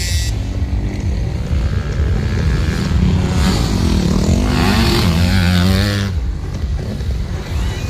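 250cc motocross bike engine running and revving, its pitch rising and falling repeatedly between about three and six seconds in.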